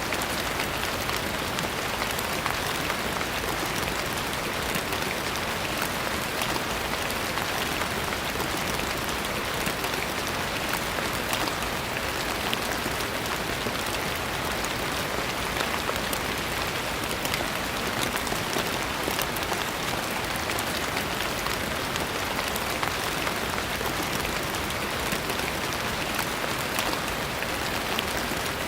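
Steady rain falling on a surface: an even hiss of rain with many small drop ticks scattered through it.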